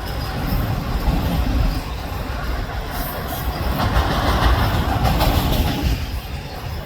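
Freight train of auto rack cars rolling past, wheels on the rails making a steady rumble with occasional clicks, swelling a little in the middle.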